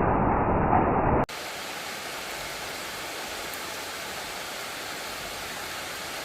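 A loud, low, rushing noise that cuts off abruptly just over a second in. It gives way to a steady, even hiss like distant rushing water.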